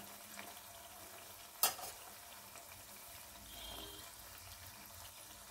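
Semolina pua batter fritter frying in shallow oil in a pan: a faint, steady sizzle and bubbling. One sharp knock about a second and a half in.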